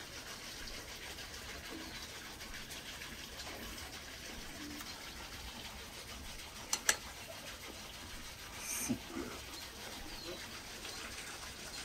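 Quiet outdoor ambience with faint bird chirps, a pair of sharp clicks about two-thirds of the way through and a brief rustle just after.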